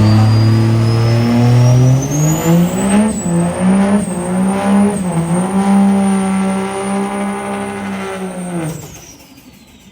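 Truck engine accelerating hard, its revs climbing with several brief dips, then holding before falling away and fading near the end. A thin high whine rises alongside the engine.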